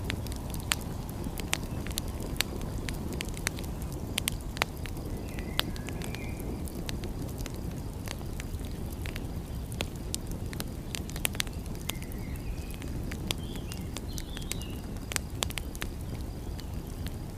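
Wood fire crackling, with many sharp irregular pops over a steady low rumble. A few faint short chirps are heard about a third of the way in and again in the last third.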